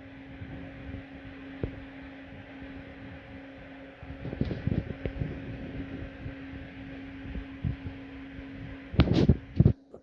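A steady machine hum with scattered light knocks, and a louder clatter about nine seconds in.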